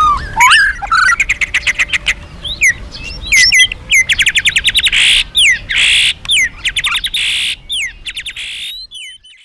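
A white-rumped shama (murai batu) in full, loud song: sliding whistles mixed with rapid trills of repeated notes and a few harsh rasping notes, fading out near the end.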